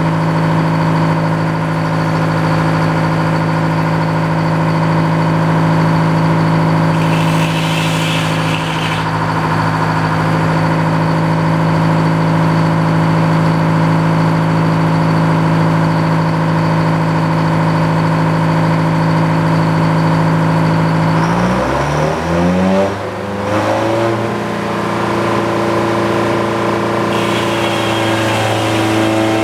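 Gas engine of a sawmill running steadily. About 21 seconds in, its pitch swoops down and back up, then settles at a different steady speed.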